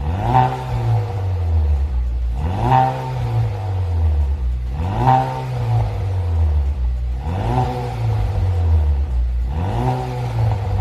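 Chevrolet Malibu 2.0-litre turbo four-cylinder with a custom variable valve exhaust, blipped five times at an even pace, each rev rising and falling back over a deep exhaust rumble.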